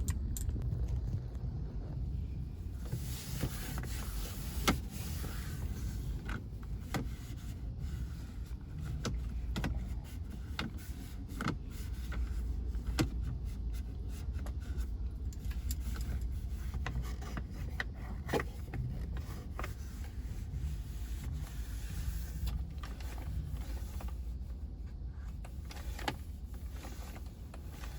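Wind rumbling on the microphone, with scattered clicks, knocks and rubbing as small items in a car's console are handled and wiped free of sand.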